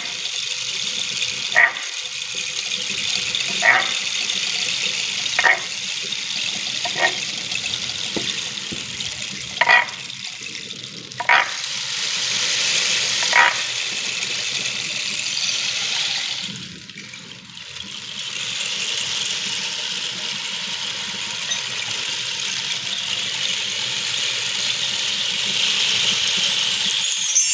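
Flowing water running steadily, with a short sharp note repeating about every two seconds over the first half. The water sound drops away briefly about two-thirds of the way through, then returns.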